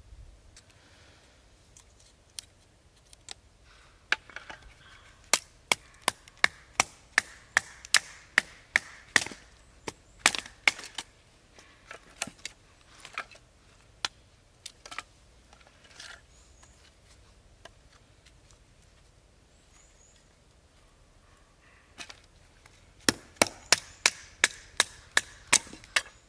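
Firewood being chopped or split into kindling: sharp wooden knocks at about two to three a second in a long run, a few single knocks, then a second run near the end.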